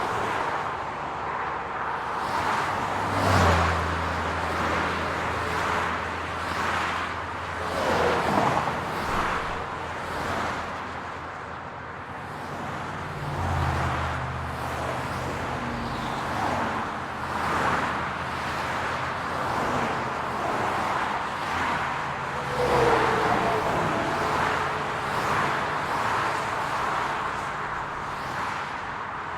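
City road traffic: cars passing one after another over a steady hum of engines and tyres, with a low engine drone standing out for several seconds at a time.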